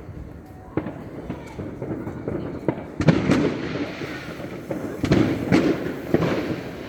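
Fireworks going off: an irregular run of sharp bangs and crackles, with the loudest bursts about three seconds in and again between five and six seconds.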